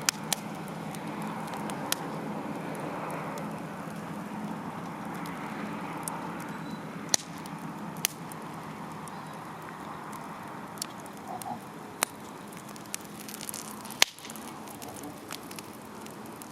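Wood campfire burning: a steady hiss broken by sharp, irregular crackles and pops, the loudest near the end.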